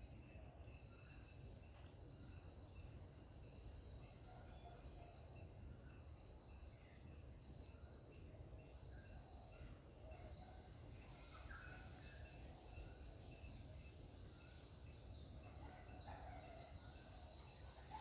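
Faint outdoor ambience: a steady high-pitched insect drone, with a second, higher insect song pulsing on and off every second or two. Scattered faint bird chirps are heard over it.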